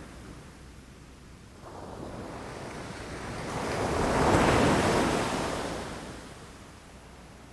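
Ocean waves breaking against rocks: one wave swells about two seconds in, crashes loudest around the middle and washes away, with wind on the microphone.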